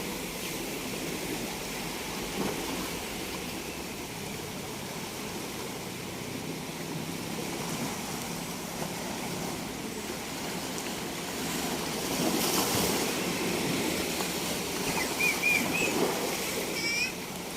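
Ocean waves washing onto a beach: a steady rush of surf, with a louder surge about twelve seconds in and another near the end. A few short high chirps sound near the end.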